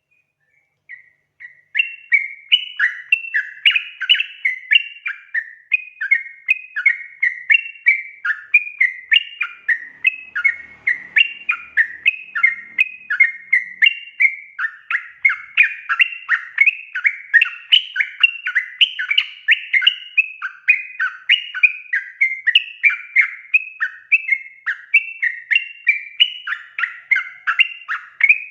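Sooty-headed bulbul calling in a fast, unbroken run of short, bright notes, several a second, starting about a second or two in.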